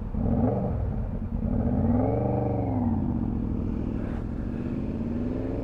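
Suzuki V-Strom 650's V-twin engine revving up and settling back once, then climbing again near the end.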